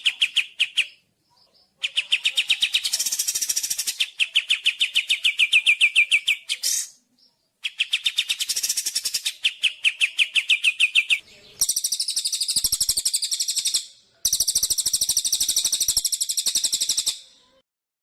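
Songbird singing in long trills: phrases of rapid, evenly repeated notes, each two to four seconds long with short pauses between. The first phrases slowly drop in pitch, and the last two, starting about midway, are higher and buzzier.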